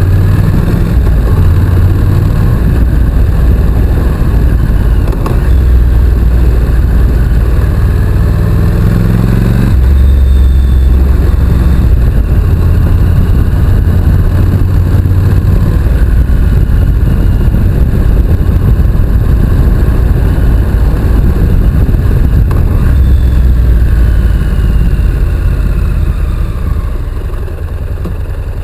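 Honda NC750X motorcycle's parallel-twin engine under way, its note climbing under acceleration and breaking at a gear change about ten seconds in, then running steadily and easing off near the end.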